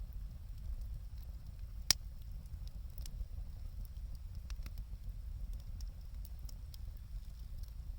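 Wood fire crackling, with scattered sharp pops over a steady low rumble; one loud, sharp pop about two seconds in.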